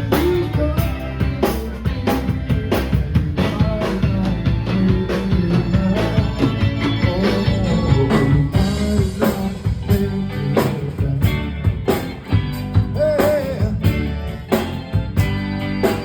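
Rock and roll band playing, with a drum kit keeping a steady beat under electric guitar and gliding melody lines.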